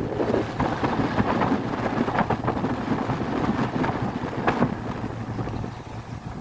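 Wind buffeting the microphone on a moving boat, a rough, crackling rumble, over the low steady hum of the boat's engine.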